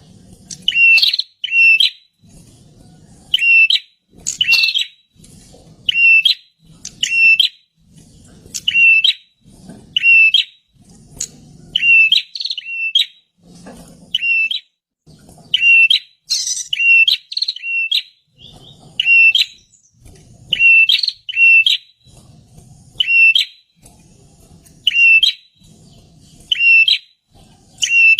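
Prinia (prenjak) singing: loud short phrases of two or three sharp notes, repeated about every one to two seconds, as used to lure other prinias into song.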